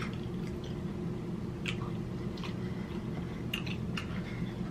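Close-miked chewing with wet mouth smacks as a person eats seafood boil in butter sauce. A few short, sharp smacks stand out about a second apart over a steady low hum.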